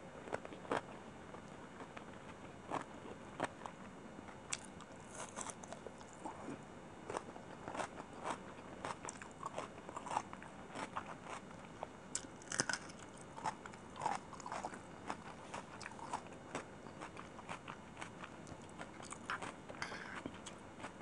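Close-miked chewing of chicken biryani: a dense, irregular run of wet mouth clicks and smacks, with a few louder ones here and there.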